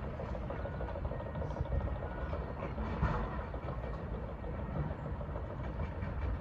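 Steady low rumble of engines running, with no sharp events.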